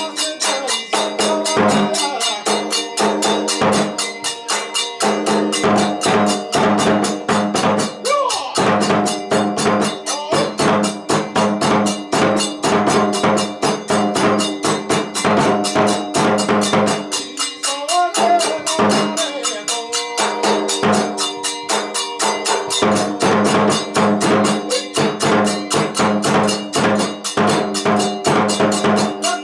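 Kagura accompaniment music: fast, driving drum and percussion strokes in a steady rhythm under a held, sliding melodic line.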